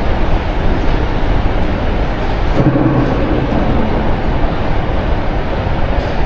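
A loud, steady rumble and hiss with no clear rhythm, joined by a short low hum about two and a half seconds in.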